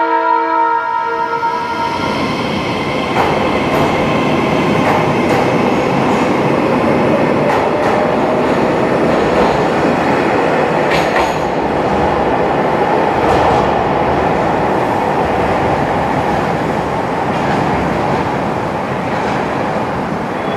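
A train's horn sounds a held chord for about the first two seconds. Then a train runs along the station tracks with steady wheel-on-rail noise and scattered clicks from the wheels.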